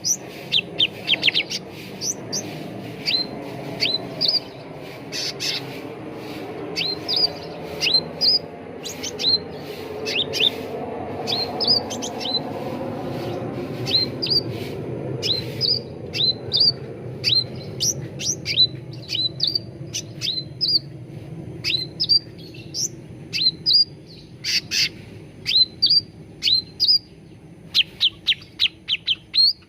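Cucak ranting birds chirping: many short, sharp notes that sweep down in pitch, often several in quick succession, over a low steady background murmur.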